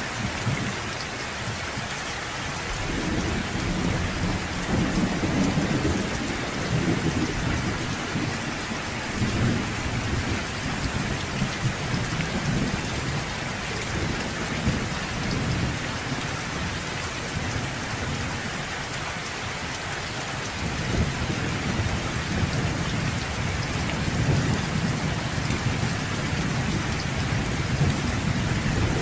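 Steady rain falling, with low rolling thunder. The rumbles swell a few seconds in and die back, then build again in the second half.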